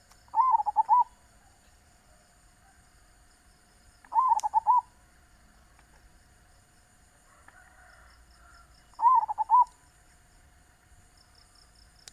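Zebra dove (perkutut) cooing: three short phrases, each a quick run of several notes lasting under a second, about four to five seconds apart.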